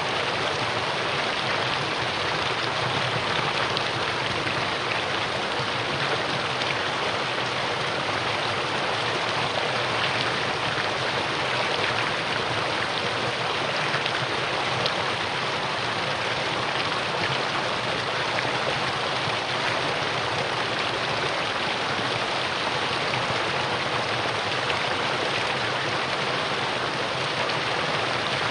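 Mountain valley stream flowing, a steady, even rush of water with no breaks.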